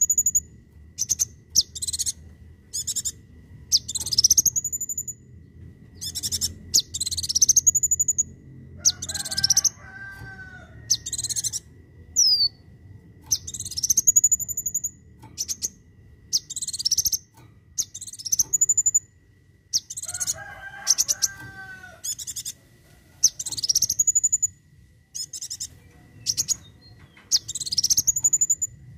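Kolibri wulung (a sunbird) calling: sharp, high, rising notes repeated in quick phrases every second or two. Twice a lower, chattering call comes in among them.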